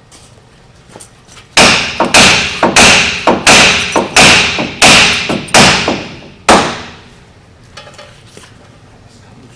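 Heavy hammer blows on a stuck truck wheel hub assembly to knock it loose: about a dozen strikes on metal in five seconds, each ringing briefly.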